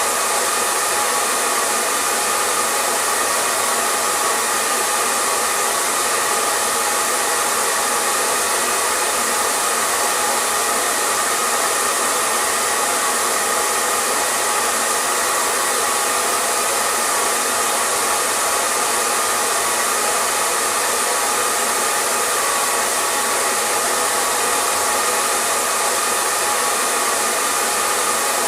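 Hair dryer running steadily, a constant airy rush with a faint hum from the motor and fan, used as white noise.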